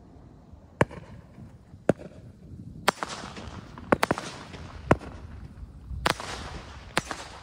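Store-bought fireworks going off: a string of about eight sharp bangs roughly a second apart, with a quick double bang near the middle. A crackling hiss lingers between the later bangs.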